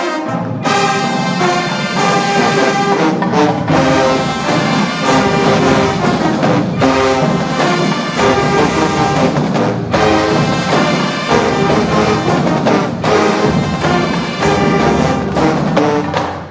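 HBCU-style marching band playing loudly, led by its brass (trombones and trumpets), in punchy phrases broken by several short, sharp cutoffs.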